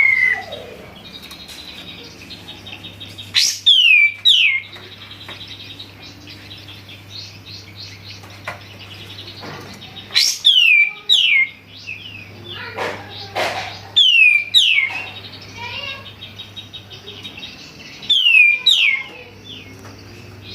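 Kapas tembak, a bulbul, singing loudly: a phrase of two or three sharp, falling whistled notes about every four seconds, with softer chattering between the phrases and a steady low hum underneath.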